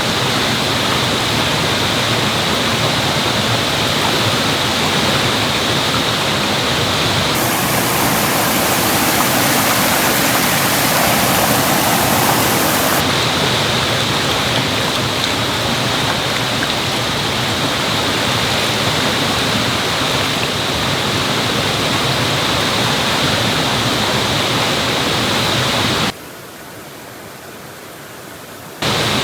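Mountain stream rushing, a steady, continuous water noise. It turns brighter for several seconds about a third of the way in, and drops much quieter for about three seconds near the end.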